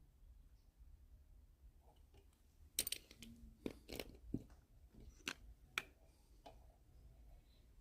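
Scattered light clicks and taps of small parts being handled and sorted, with a cluster of sharper knocks in the middle.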